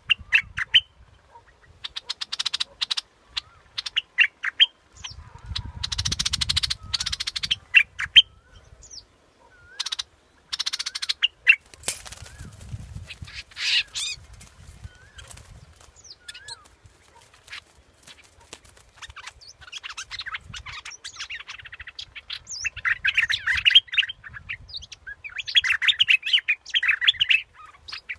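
Bulbul (the yellowish bulbul known in Thai as นกปรอดดอกแตง) singing and chattering in repeated bursts of quick whistled notes, the calls coming thicker toward the end. This is a recorded decoy call, played to lure the same species.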